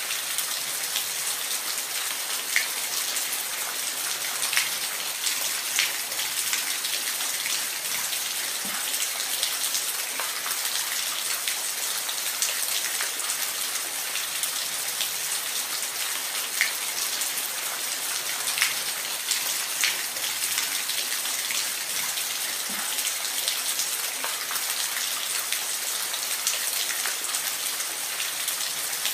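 Steady hiss of falling water splashing, with scattered sharper drip and splash ticks over the top.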